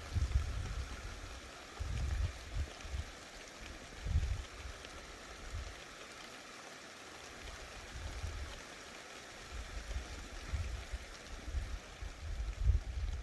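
Thunderstorm rain falling steadily as an even hiss, with short low rumbles coming every couple of seconds.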